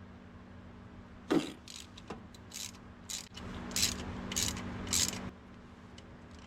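Hand socket ratchet working on a starter-mounting bolt, a knock about a second in and then a string of short ratcheting strokes about every half second that stop about two seconds before the end.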